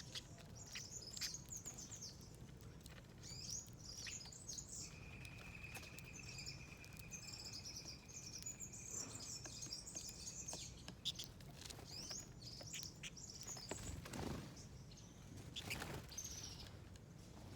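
Small wild birds chirping and calling repeatedly in quick high-pitched notes. In the middle, a steady high whistle holds for about six seconds.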